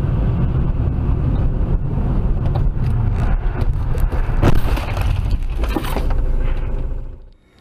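Car driving, with a loud, steady rumble of engine and road noise. There are two sharp knocks about four and a half and six seconds in, and the sound cuts off abruptly near the end.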